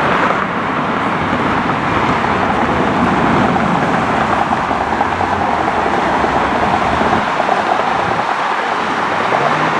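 A loud, steady roar of engine noise that holds level without rising or falling.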